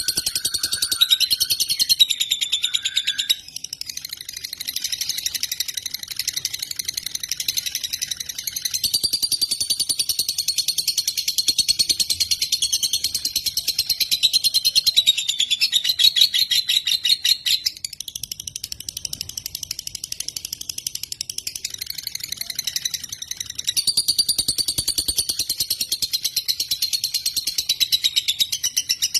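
Lovebird singing a long, very fast, high-pitched chattering trill, almost without a break, with brief dips about three seconds in and again about halfway through.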